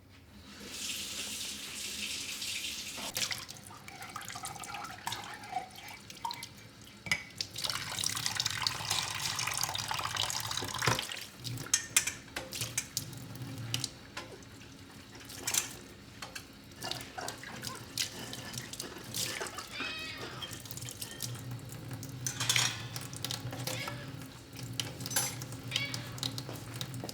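Water running from a tap into a sink in spells, mixed with short clicks and knocks of things being handled in the sink.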